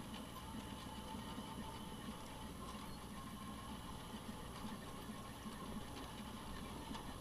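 An engine idling steadily at low level.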